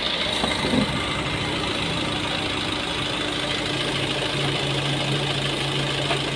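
Maruti Suzuki Swift's 1.3-litre four-cylinder diesel engine idling steadily, with its electric radiator cooling fan running. The engine is warm and the freshly repaired radiator is holding coolant without leaking.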